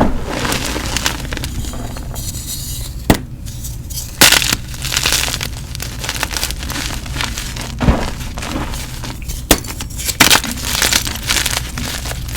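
Gym chalk being crushed and crumbled: a run of crunches and crumbling with several loud, sharp cracks as pieces snap.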